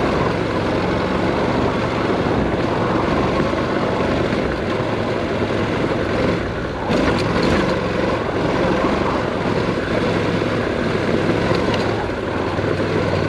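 Honda NC700X motorcycle's parallel-twin engine running steadily while riding off-road on dirt, with a brief knock about seven seconds in.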